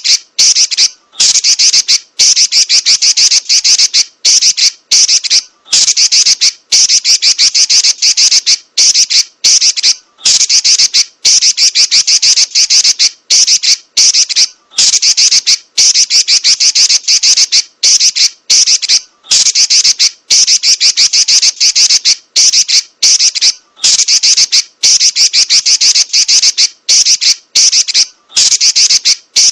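Female red-billed leiothrix (Pekin robin) giving loud, high, rapid chattering trills in runs of about a second, broken by brief pauses.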